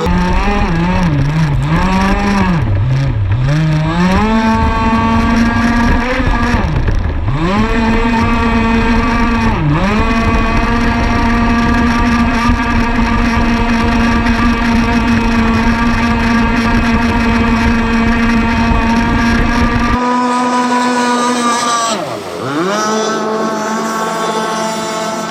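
Small gas two-stroke engine of a Pro Boat Rockstar 48-inch RC catamaran running on the water through its tuned pipe. The throttle is eased off and opened several times early on, then held at a steady high pitch, with one sharp dip and recovery near the end. The engine is brand new and still breaking in.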